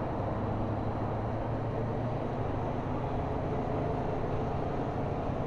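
Motorcycle riding along a road: steady engine hum with wind and road noise on the bike-mounted microphone.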